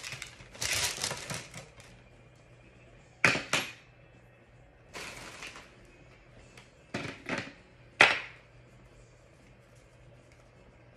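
Scattered clicks and knocks of tumbler turner parts and tools being handled during assembly, with a rustling stretch near the start and another about halfway, and the sharpest knock about eight seconds in.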